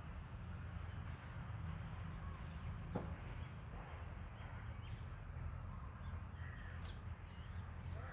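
Faint outdoor ambience: scattered distant bird calls over a steady low rumble, with a single sharp click about three seconds in.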